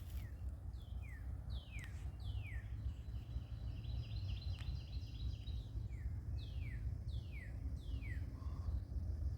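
A songbird singing a series of short whistled notes, each sliding downward, in two runs of about four notes, over a steady low rumble.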